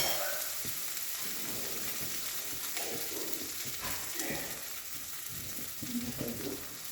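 Ginger-cumin paste and tempering spices sizzling steadily in hot olive oil in a kadai as the masala is sautéed.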